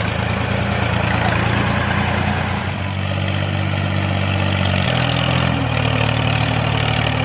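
Truck engine running steadily, a low even drone that shifts slightly in pitch about five seconds in.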